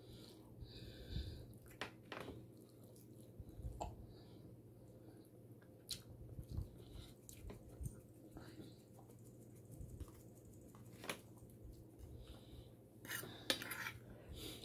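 Close-miked chewing and mouth sounds of a person eating, quiet, with scattered short clicks of a fork against a plate; the sharpest cluster of clicks comes near the end.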